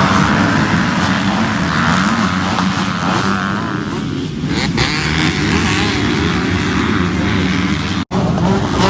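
Dirt bike engines running and revving, a steady engine drone whose pitch rises and falls. The sound cuts out abruptly for an instant about eight seconds in.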